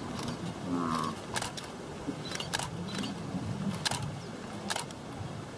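Camera shutter clicking several times at irregular intervals, with a short bird call about a second in.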